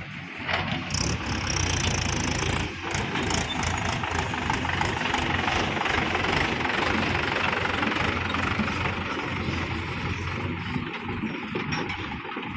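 Diesel engine of heavy machinery running steadily, with a brief dip about three seconds in.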